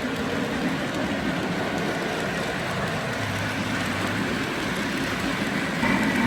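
Lionel Legacy O gauge model of Santa Fe 4-8-4 steam locomotive 2926 running on track: a steady, hissing rolling noise. A steady tone comes in near the end.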